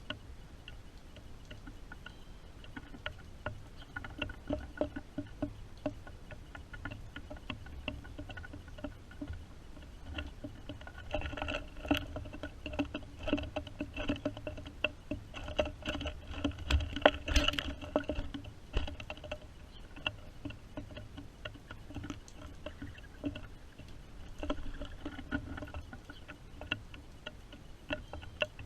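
Rain pattering and dripping, with many irregular sharp taps that come thickest in the middle, over a steady low rumble.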